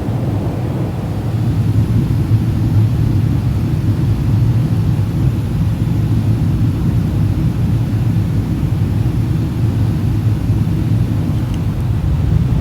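Boeing 777-300ER airliner heard from inside the economy cabin during the approach and landing into Dubai: a steady, low rumble of engines and airflow.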